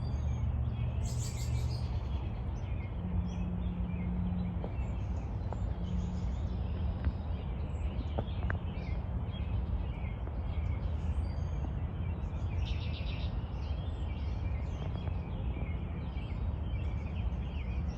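Small birds chirping and calling here and there over a steady low rumble of outdoor background noise.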